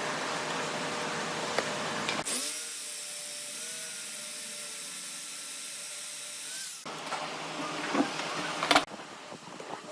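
A woodworking power tool's electric motor runs with a steady whine for several seconds, then cuts off. It is followed by rougher workshop noise and two sharp knocks near the end.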